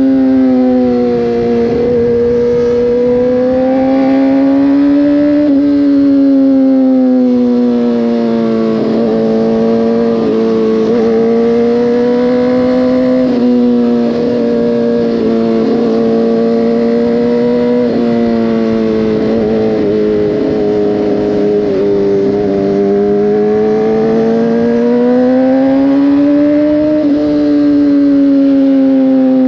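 Motorcycle engine running at road speed, heard from the bike. Its pitch slowly rises and falls with the throttle, with a few quick dips in between.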